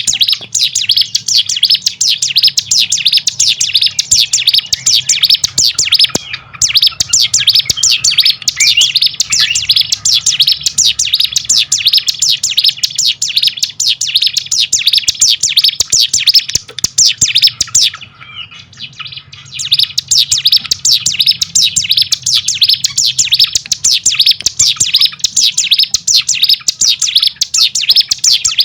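Ciblek gunung song: a rapid, unbroken stream of high chirps and trills. It breaks briefly about six seconds in and pauses for a second or so around eighteen seconds. A faint steady hum runs underneath.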